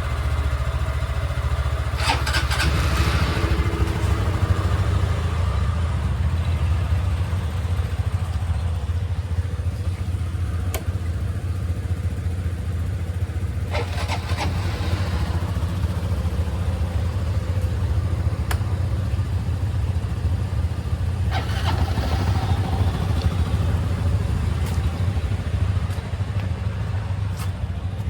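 Motorcycle engine idling steadily on a cold start after long storage. Three brief higher-pitched rushes of noise come over the idle, about two, fourteen and twenty-one seconds in.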